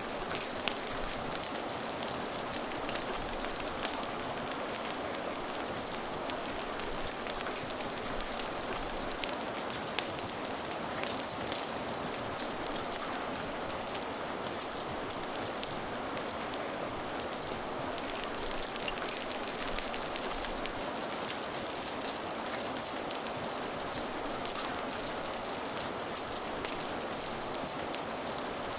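Steady rain ambience: an even hiss of falling rain with many small drop ticks scattered throughout.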